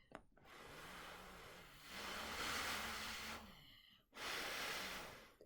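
Breath blown in three puffs at the sound sensor of an Arduino-controlled fan boat, the middle puff the longest and strongest. Under the first two runs the faint hum of the small fan motor, which rises in pitch while the blowing is strongest, as the fan speeds up in response to the sensed sound.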